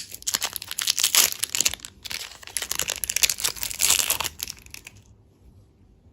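Dense, rapid crinkling and crackling of plastic candy packaging being handled, which stops sharply about five seconds in.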